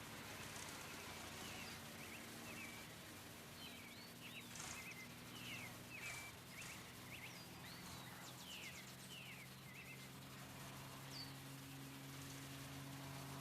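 Birds chirping: many short, quick falling calls, faint, over a low steady drone that grows slightly louder near the end.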